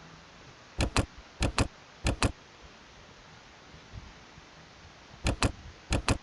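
Computer mouse clicking: five quick double clicks, three in the first two seconds and two more near the end.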